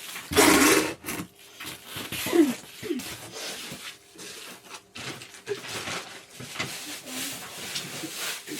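Handling and scraping of gaming-chair parts, with a loud rustle-like scrape about half a second in and scattered rubbing after it, including a couple of short squeaks.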